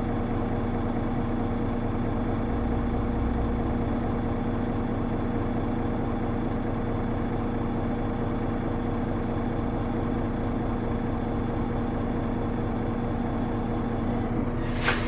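Hino Rainbow HR bus engine running steadily, heard from inside the passenger cabin, with a constant hum. Near the end comes a short hiss of air.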